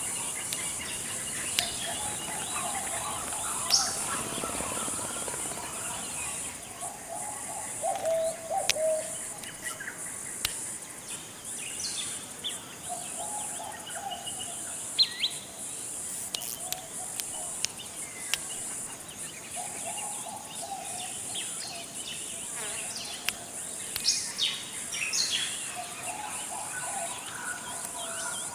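Forest ambience: a steady high-pitched insect drone, with scattered short bird chirps and whistles and lower calls recurring every few seconds.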